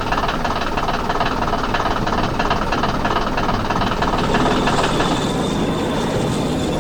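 Heavy engine running with a fast, even rattle, like a construction machine's diesel at work.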